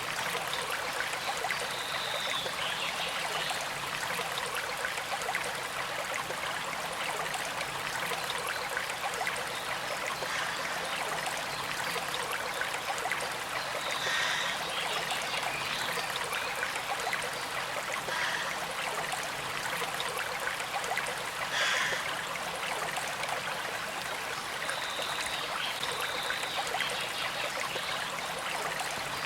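A small creek flowing and trickling steadily over stones, an even wash of water sound. Now and then a brief higher note stands out for a moment.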